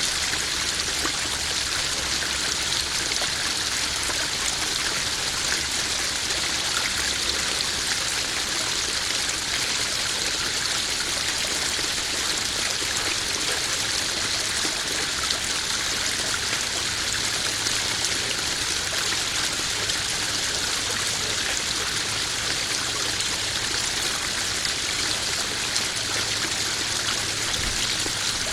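Small garden waterfall spilling into a koi pond: a steady splashing and trickling of running water.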